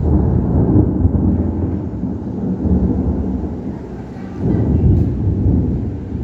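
Thunder rumbling low from a lightning storm, swelling at the start and again about four and a half seconds in.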